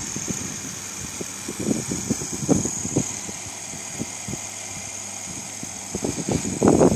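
Small electric motor running a Meccano Ferris wheel: a steady high whine under irregular clicking and rattling from the Meccano gearing and parts, which grows louder and busier near the end. The motor runs on about 1.5 volts and draws little current.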